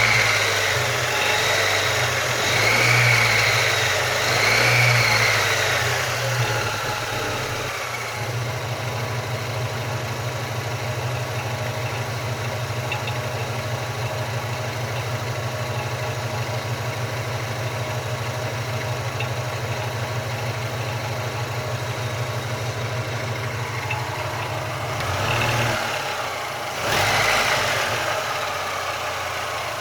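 Car engine revved in three short blips, then settling to a steady idle, with two more quick revs near the end; the engine is being run to show a knock.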